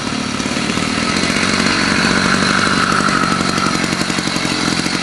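Small engine of a home-built motorized bicycle running, with a fast, even firing beat that grows louder over the first couple of seconds and then holds steady.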